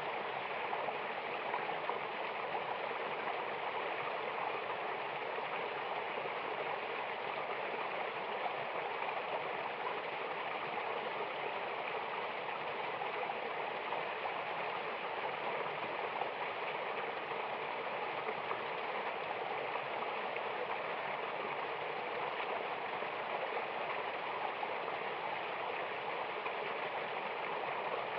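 Mountain waterfall: water rushing and splashing in a steady, even rush, with little deep rumble.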